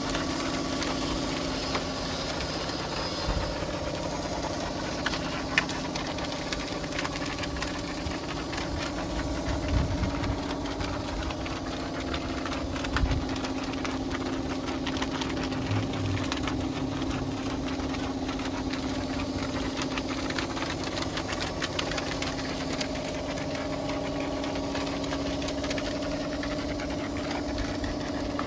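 An engine running steadily at a constant speed, with a couple of brief thumps about ten and thirteen seconds in.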